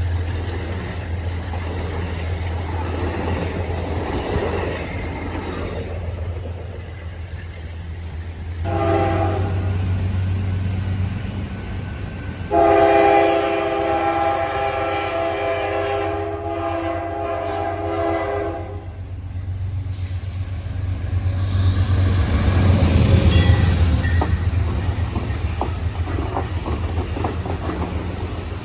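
A diesel passenger train led by an Amtrak GE Dash-8 locomotive runs with a steady low engine rumble. Its multi-tone air horn sounds twice, a short blast and then a longer one of about six seconds. The train then passes with wheel and rail noise and some clickety-clack.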